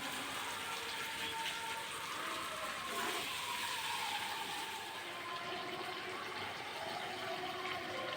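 Steady running water, with a faint pitch that drifts down around the middle.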